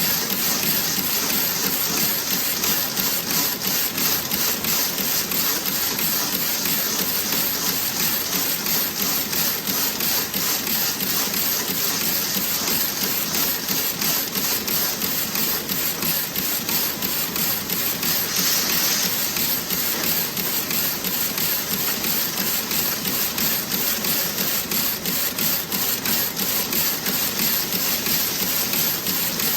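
Toe-sock knitting machine running steadily, a fast, even mechanical clatter, with a short higher hiss about two-thirds of the way through.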